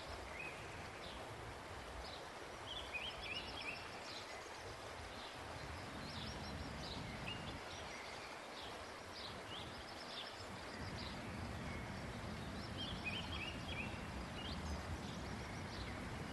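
Quiet outdoor ambience: small birds chirping in short repeated calls over a steady soft noise bed, with a denser flurry of calls about three seconds in and again near thirteen seconds.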